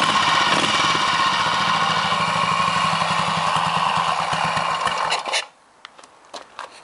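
BSA B40's single-cylinder four-stroke engine running steadily, then cutting off suddenly about five seconds in, followed by a few light clicks.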